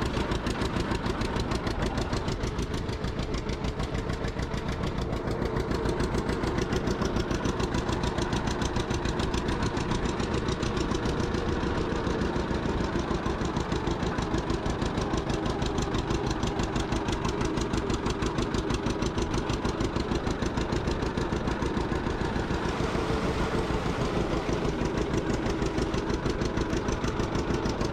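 Two-cylinder John Deere tractor engine running steadily while driving, its firing pulses coming in an even, rapid train throughout.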